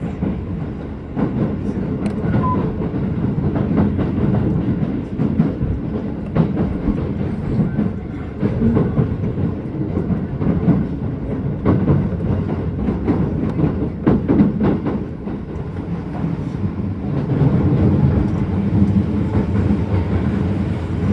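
Keisei 3000 series electric commuter train running, heard from inside the passenger car: a steady rumble of wheels on the track with scattered clicks of the wheels passing over rail joints. The rumble grows louder in the last few seconds.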